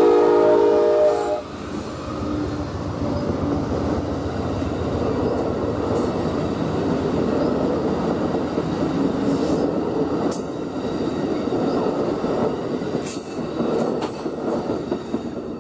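Amtrak passenger train passing. The locomotive's horn sounds a multi-note chord that cuts off about a second in, then the train rumbles steadily by with a few sharp wheel clicks.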